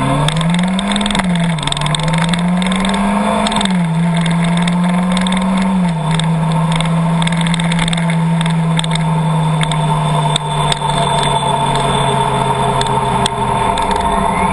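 Car engine pulling through the gears: its pitch rises and drops twice in the first four seconds, then holds steady as it cruises, dropping slightly near the end. A steady rushing noise and scattered faint ticks sit under it throughout.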